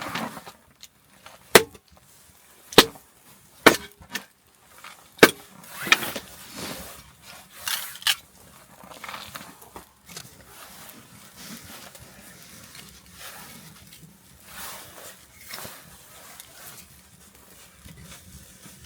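Wood fire crackling, with a run of sharp, loud pops over the first eight seconds or so, then a softer crackle.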